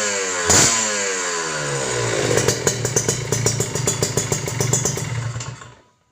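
Motorcycle with an aftermarket stainless 'AI Tech carbon' exhaust, blipped once and dropping back to idle. It then idles with a steady low note and a rapid, uneven crackle from the exhaust, and the sound cuts off near the end.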